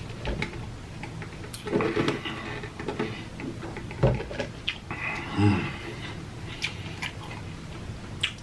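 Close-miked eating sounds: chewing fried food with wet mouth clicks and smacks in irregular bursts, loudest about two and five seconds in.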